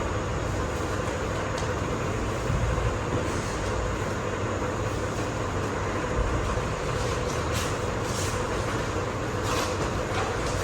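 Steady rumbling noise with a low hum and a faint steady tone, with a few brief hissy sounds near the end.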